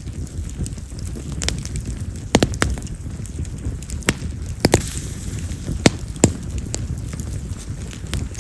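Wild cherry (yamazakura) firewood burning in an open fire: a steady low rush of flame with sharp crackling pops at irregular intervals, a handful of them loud. Cherry is a wood known for crackling loudly as it burns.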